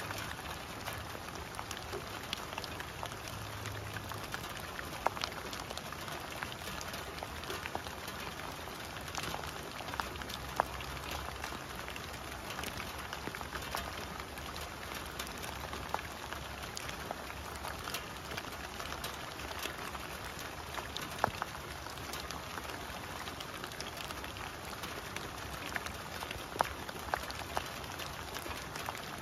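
Steady rain falling on dead leaves and standing water, an even hiss with scattered sharper drop hits.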